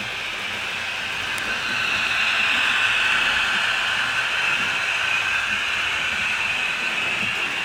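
HO scale model train running along the track: a steady hiss and rumble of wheels on rails and the running gear, growing louder a couple of seconds in as it comes close, then easing slightly.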